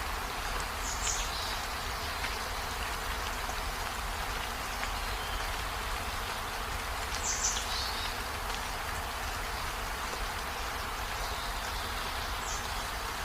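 Steady rain falling, an even hiss, with three brief high chirp-like sounds about a second in, near the middle and near the end.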